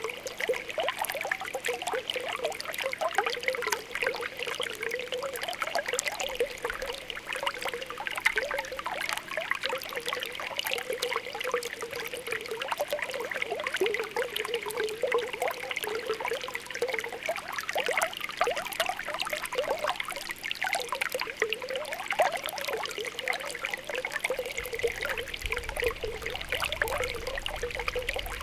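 Spring water welling up, with continuous small bubbling pops and gurgles (ポコポコ).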